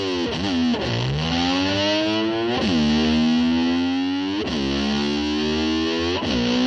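Heavily distorted electric guitar sliding up and down in pitch to mimic a motorcycle revving and shifting through the gears. Each note climbs slowly, then jumps and drops sharply about every two seconds, over a steady low rumble.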